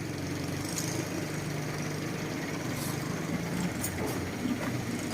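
Crane truck's engine idling steadily, with a low hum.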